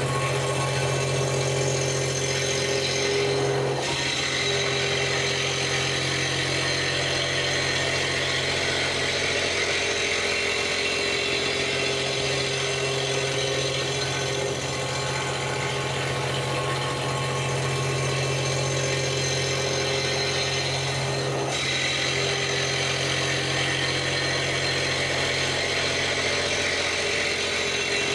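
CNC milling machine running steadily while machining a pump volute casting: a constant low spindle hum with steady tones over a high cutting hiss. The hiss changes briefly about 4 seconds and 21 seconds in.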